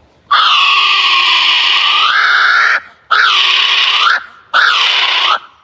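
Kiwi calling: one long shrill call, then a series of shorter calls, each rising and then falling in pitch.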